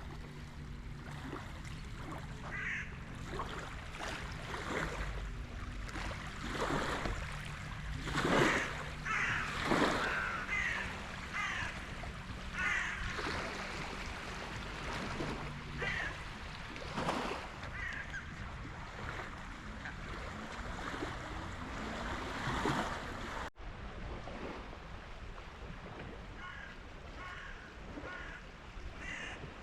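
Birds calling again and again, in short repeated calls, over a low steady hum and outdoor ambience. The sound cuts abruptly about three-quarters of the way through, and fainter bird calls carry on after it.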